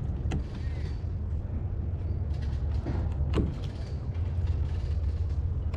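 Steady low rumble of wind on the microphone, with a sharp click near the start and a short falling creak about three seconds in, likely handling noise while a fish is worked off the hook.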